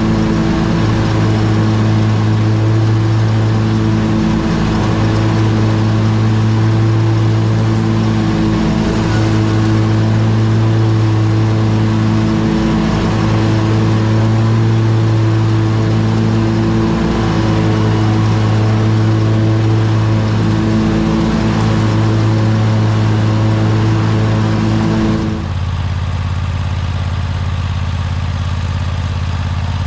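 Bad Boy riding mower engine running steadily while mowing, its note dipping briefly every four seconds or so. About 25 seconds in the sound changes abruptly to a lower, duller steady drone.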